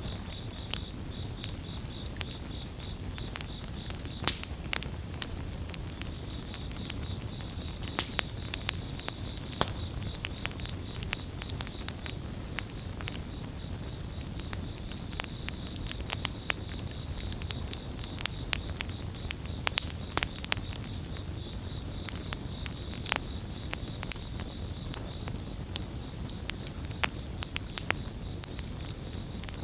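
Campfire crackling with frequent sharp, irregular pops over a steady low rumble of the burning wood. Crickets chirp in a fast pulsing trill behind it, clearest at the start and again near the end.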